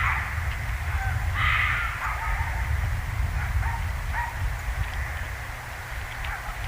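Harsh, crow-like cawing: one loud call about a second and a half in, followed by several fainter short calls, over a steady low rumble.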